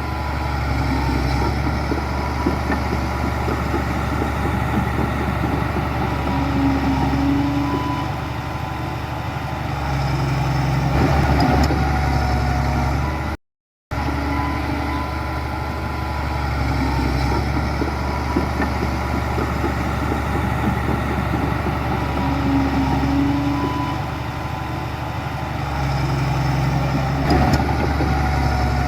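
Heavy diesel engine of earthmoving machinery running steadily, swelling under load now and then. The sound drops out briefly about halfway through.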